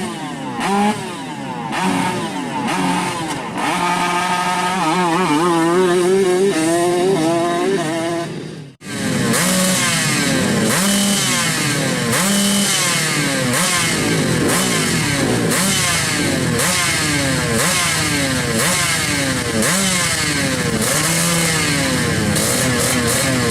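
Motorcycle engines revving over and over, the pitch climbing and dropping with each blip of the throttle. After a sudden cut about nine seconds in, several bikes rev at once in an overlapping racket.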